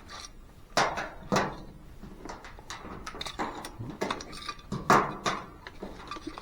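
Irregular clinks and knocks of small hard, metallic parts being handled and fitted together, about a dozen sharp clicks, the loudest about a second in and near five seconds.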